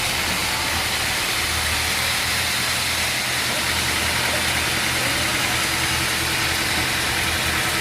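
An engine running steadily at idle under a constant, even machine noise, with no cutting heard.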